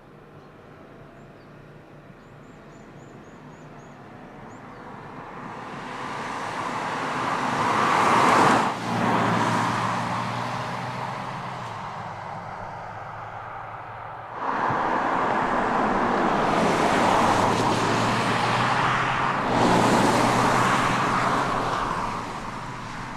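A car driving by, its engine and tyre noise swelling to a peak about eight seconds in and then breaking off sharply. A second loud pass starts about fourteen seconds in and holds until near the end.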